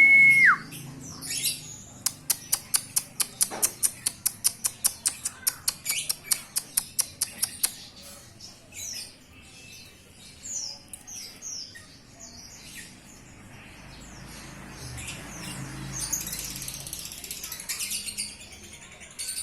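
Lovebird calling: a fast, even run of sharp chirps, about five a second for some six seconds, then scattered single chirps. A whistled tone cuts off just at the start.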